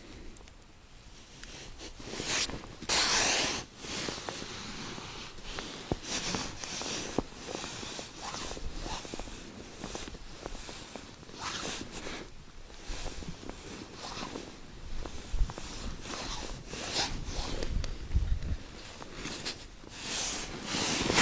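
Intermittent rustling and scraping noises in several short bursts, the longest about half a second.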